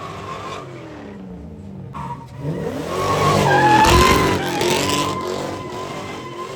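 A car doing a burnout: the engine revs up and down, loudest about four seconds in, over a steady high-pitched tire squeal.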